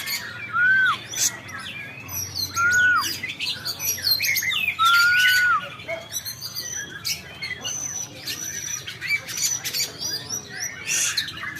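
Oriental magpie-robin (kacer) singing a vigorous, varied song of rapid chirps and whistles, the full song of a bird in top form. Three loud arched whistles stand out in the first half.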